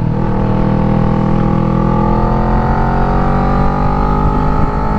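Kawasaki Ninja 650's parallel-twin engine under way, its revs climbing slowly and steadily as the bike gathers speed, over a low rumble of wind.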